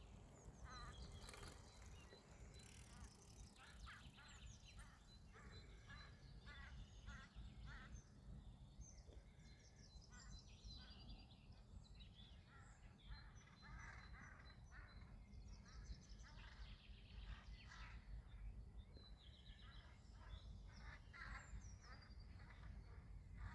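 Faint bird calls: many short chirps and trills in quick series, over steady low background noise.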